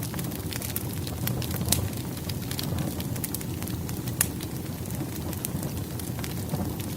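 Burning firewood crackling: a steady low rumble of flames with irregular sharp pops and snaps, two louder pops about two and four seconds in.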